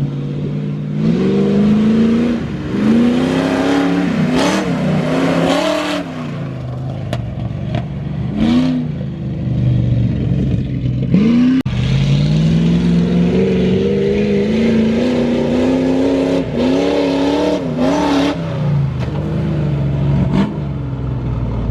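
Pit bike's small single-cylinder engine riding hard and loud, revving up and easing off again and again. There are several quick throttle chops and one long pull in the middle.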